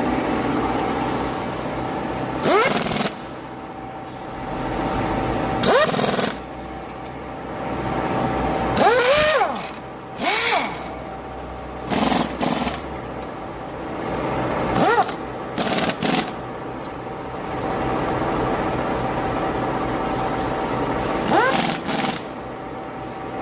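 Ford Grand Marquis engine running steadily with a whine, broken every few seconds by short, sharp, louder noises that sweep quickly up or down in pitch.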